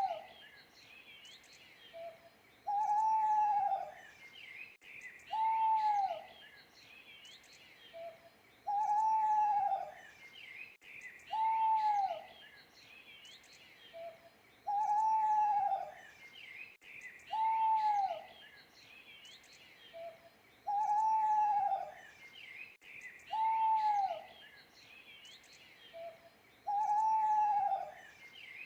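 Owl hooting: a single hoot about a second long every three seconds, each one dipping in pitch at the end, with a short soft note just before every other hoot. Small birds chirp faintly behind it throughout.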